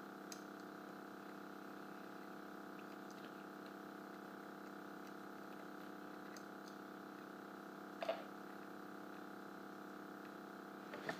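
Faint steady hum made of several level tones, with a light click near the start and a short rustle about eight seconds in.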